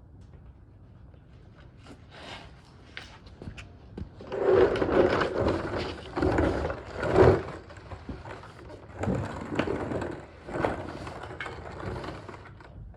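Irregular metal clanks, scrapes and rattles of tools and a jack working on the engine and transmission mounts under a car, loudest from about four to seven and a half seconds in.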